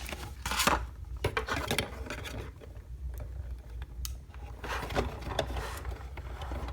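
Small plastic toy pieces being handled and set in place, with scattered light clicks and taps.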